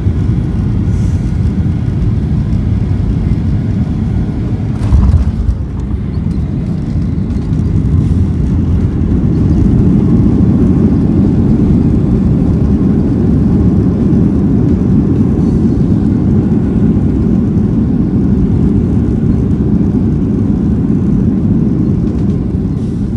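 Jet airliner heard from inside the cabin: a steady low rumble, a single sharp thump about five seconds in, then the rumble grows louder and holds steady.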